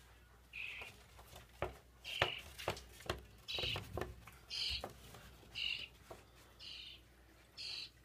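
Birds inside a ceiling vent giving short, high calls about once a second, with a few sharp knocks and scratches in between.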